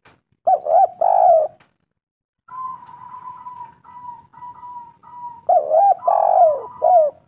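Spotted dove (tekukur) cooing in short phrases of curved, rolling coo notes, one phrase near the start and another from about halfway through to the end. Between the phrases a quieter, steady higher note sounds in short broken pieces.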